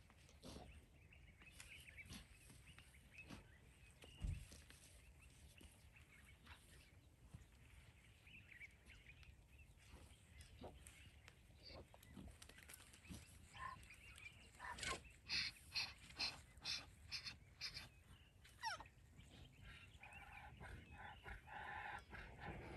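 Faint outdoor ambience with a low thump about four seconds in, a quick run of about eight sharp, evenly spaced bird calls a little past the middle, and a faint held call near the end.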